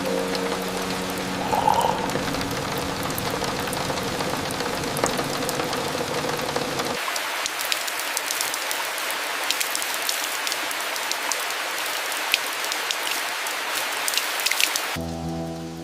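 Steady rain with many separate drops tapping. About seven seconds in it changes abruptly to a sharper, clearer patter of drops, and near the end the rain cuts off and a steady held tone takes over.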